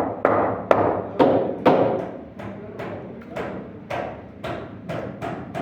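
Hammer striking wood over and over, about two blows a second, as in carpentry work. The first few blows are louder and the later ones lighter.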